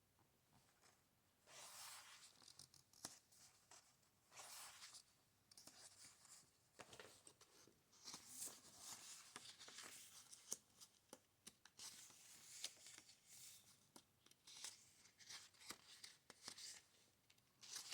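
Faint paper rustling as book pages are turned and handled: a string of soft swishes with small taps and ticks between them.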